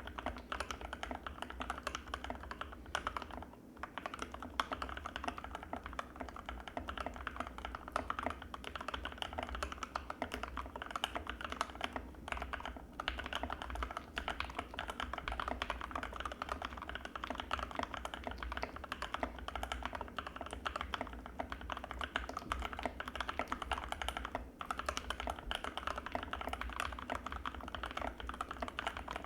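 Fast continuous typing on an Anne Pro 2 mechanical keyboard with Gateron Red linear switches: a dense stream of keystroke clacks, with brief pauses about three and a half seconds in, around twelve seconds, and near twenty-four seconds.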